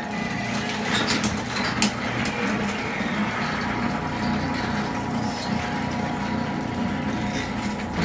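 Electric garage door opener running as the door travels down, a steady motor hum with clicks and rattles from the door and its track.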